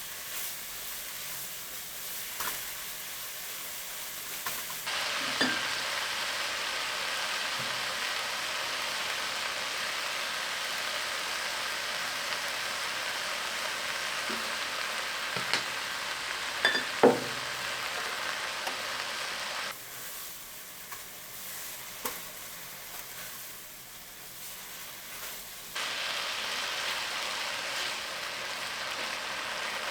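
Food sizzling as it fries in oil in a pan. The sizzle grows louder about five seconds in, falls back at about twenty seconds and comes up again near twenty-six, with a few sharp knocks, the loudest about seventeen seconds in.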